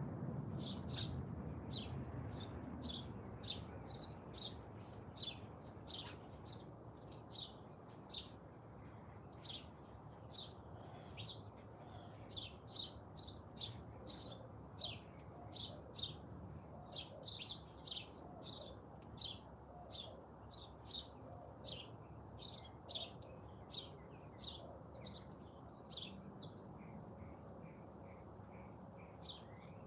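Small songbirds chirping: short high chirps repeating one or two a second, over faint steady background noise.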